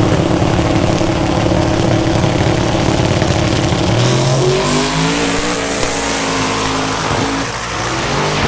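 A vehicle engine running, steady for the first half, then its revs shift about halfway through, rising and falling.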